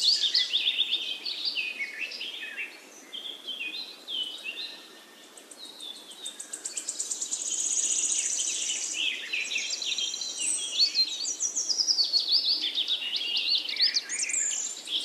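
Birds chirping and trilling, several quick overlapping calls, briefly quieter about five seconds in.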